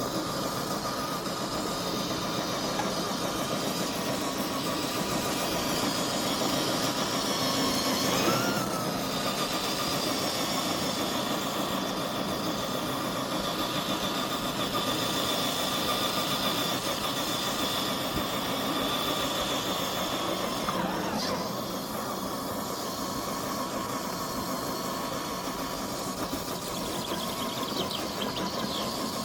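FMS FJ40 RC scale crawler's electric motor and gearbox whining steadily as the truck drives, the pitch briefly rising and falling about eight seconds in and the sound dropping off around twenty seconds in as the throttle changes.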